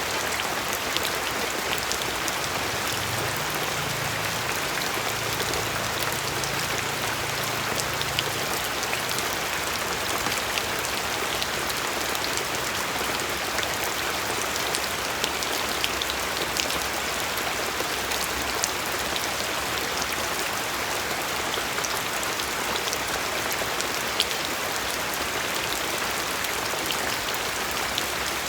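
Steady rain falling, an even hiss with scattered sharp clicks of individual drops hitting a surface.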